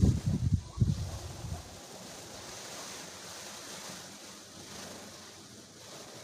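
Wind buffeting the microphone in loud, gusty rumbles for the first couple of seconds. After that, a steady hiss of rain.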